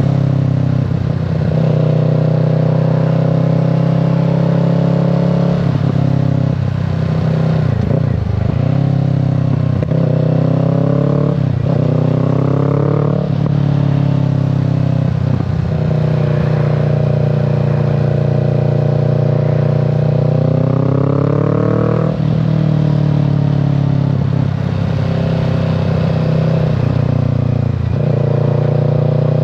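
Kawasaki Z650 parallel-twin engine and exhaust under way, steady for stretches, with its pitch rising several times under acceleration and dropping sharply at each gear change.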